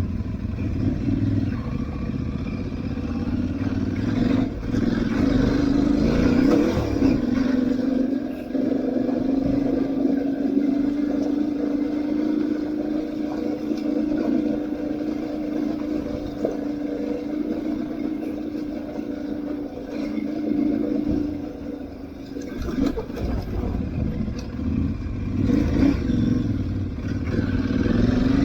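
Aprilia Tuareg 660's parallel-twin engine running as the motorcycle is ridden off-road. The engine note climbs about six seconds in, holds steady for some fifteen seconds, then rises and falls again near the end.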